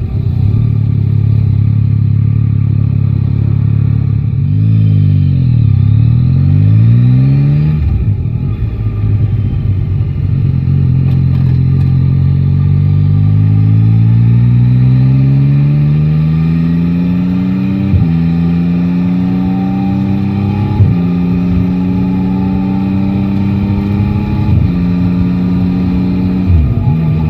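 Three-cylinder motorcycle engine on the move. Its note falls and then picks up again, then climbs in a long pull. In the second half come three upshifts, each a sudden drop in pitch followed by another climb.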